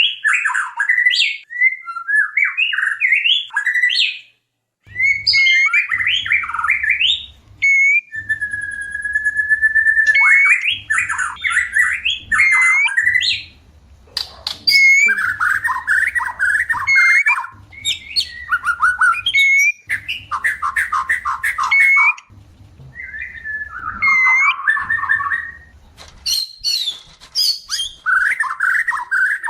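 White-rumped shama song in rapid, varied phrases of chirps, trills and harsh notes, with one long level whistle about eight seconds in. It is the song of shamas in breeding condition calling for a mate.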